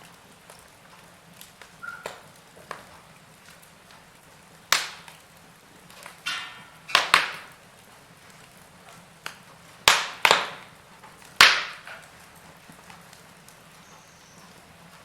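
Wood fire in a fireplace crackling, with about half a dozen loud, sharp pops from the burning logs in the middle of the stretch, over a low steady hiss.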